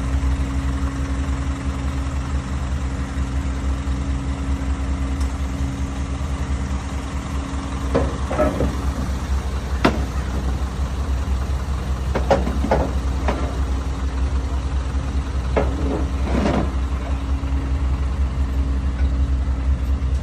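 A vehicle engine idling steadily, with a handful of short knocks and clunks about halfway through.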